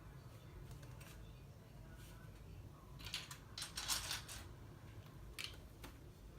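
Plastic LEGO pieces clicking and clattering as they are handled and sorted through, a few short sharp clicks in a cluster about three to four seconds in and a couple more near the end, over a faint steady hum.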